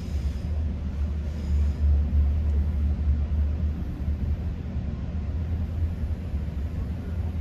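Low, steady rumble of a GO Transit passenger train running on the rails, heard from inside a coach.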